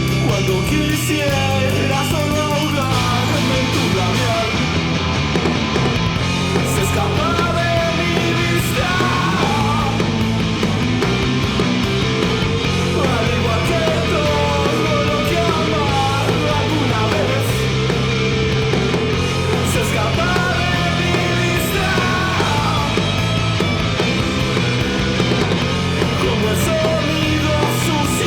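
Loud, steady punk-grunge rock with heavily distorted electric guitar over bass and drums, a bending melodic line running above the chords.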